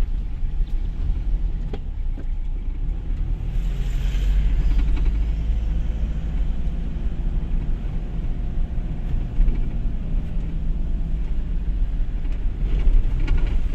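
Two-wheel-drive Toyota HiLux driving over a rough dirt track, heard as a steady low rumble of engine and tyres with a few faint knocks and rattles, getting a little louder about four seconds in.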